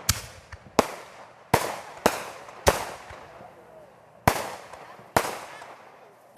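Fireworks going off: seven sharp bangs at uneven intervals, each followed by a short fading echo.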